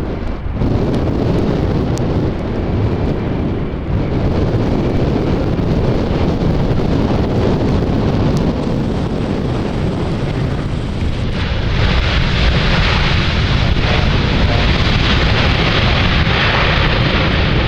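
Jet airliner engine noise, a heavy rumble that grows louder and hissier about two-thirds of the way in as the aircraft passes, with wind buffeting the microphone.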